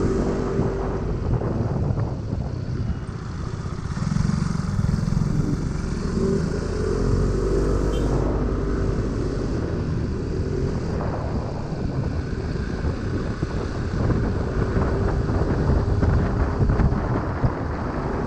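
Scooter engine running while riding, its note drifting up and down with the throttle, under a steady rumble of wind on the microphone.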